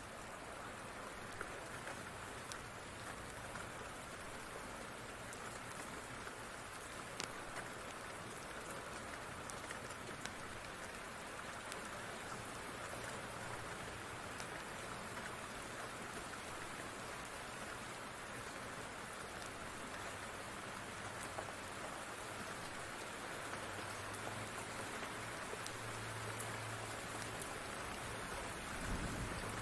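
Steady rain falling, with scattered small clicks through it and a short low thump near the end.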